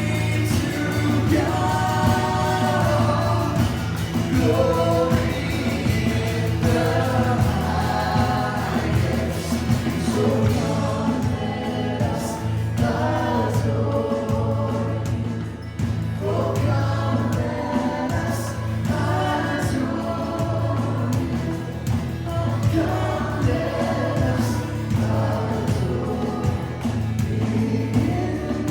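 Church worship music: a group of voices singing a worship song together over band accompaniment with a steady low bass.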